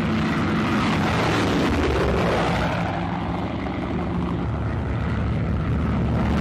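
Twin piston engines of a Junkers Ju 88 bomber running steadily in flight.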